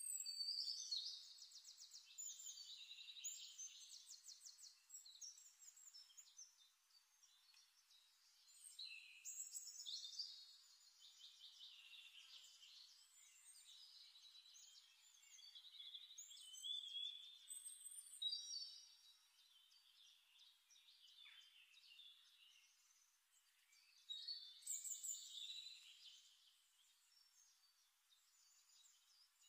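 Faint birdsong: phrases of chirps, trills and gliding whistles coming and going every few seconds.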